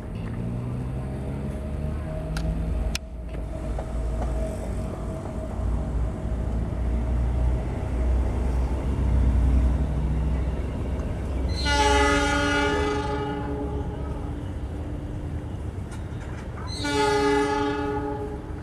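Diesel locomotive hauling a passenger train, its engine rumbling heavily and growing louder toward the middle. It sounds two long horn blasts, one a little before two-thirds of the way through and another near the end.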